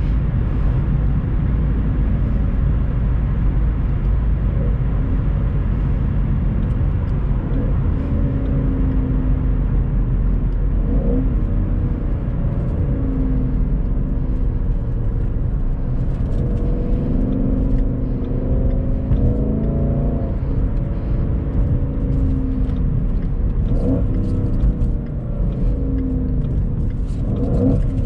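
Ford Mustang GT's 5.0-litre V8 heard from inside the cabin while driving: a steady low rumble whose note rises and falls several times as the throttle comes on and off.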